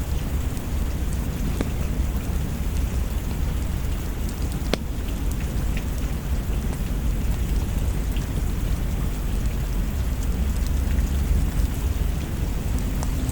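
Steady rain falling on a surface, over a constant deep low rumble. There is a single sharp click about five seconds in.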